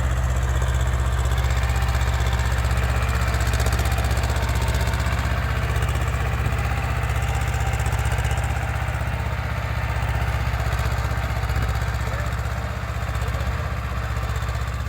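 Swaraj 724 4WD tractor's diesel engine running steadily at an even speed.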